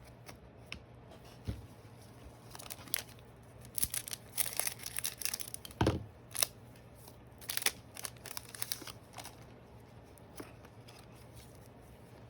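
Trading cards being handled: paper-and-foil rustling and crinkling as cards slide against each other, with a few light taps and knocks.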